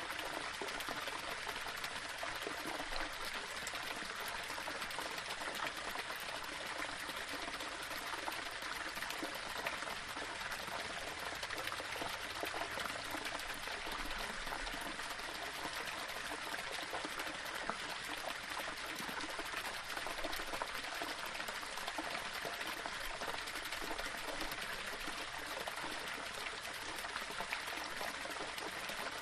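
Small waterfall running steadily over stones: an even rush of splashing and trickling water.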